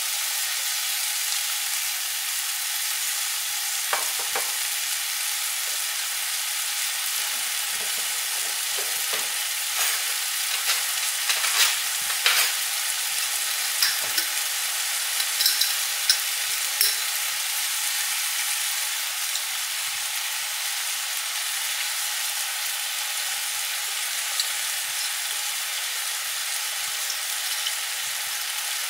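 Kimchi, green onion and diced carrot frying in hot oil with soy sauce in the pan: a steady sizzling hiss, with scattered small pops and crackles through the middle.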